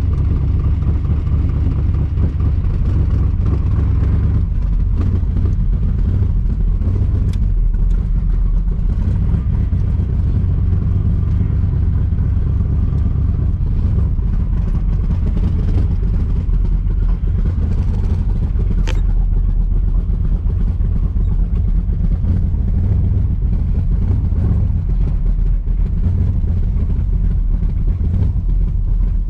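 1982 Camaro's 5.0 V8 running through newly fitted mufflers as the car is driven off, a steady low exhaust note. Two brief sharp clicks, about 7 and 19 seconds in.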